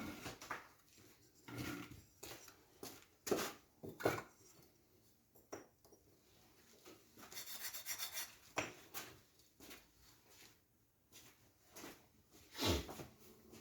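Bricklaying: a mason's trowel scraping mortar and scattered knocks as bricks are set. A longer spell of scraping comes about seven seconds in.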